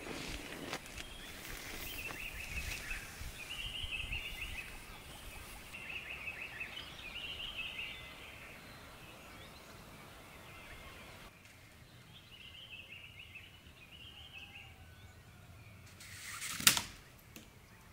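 Small birds chirping in short repeated phrases over a quiet forest background, through the first half and again briefly later. Near the end comes a single sharp knock, the loudest sound.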